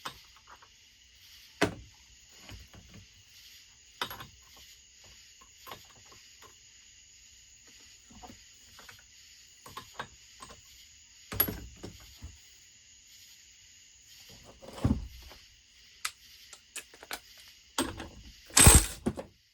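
Hand tools clicking and knocking against a chainsaw's engine parts as it is taken apart: scattered sharp clicks and knocks, the loudest just before the end, over a faint steady hiss.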